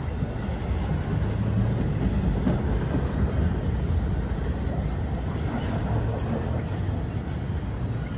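Double-stack intermodal freight train rolling past: a steady low rumble of steel wheels on the rails, with a few sharp high clicks about five to seven seconds in.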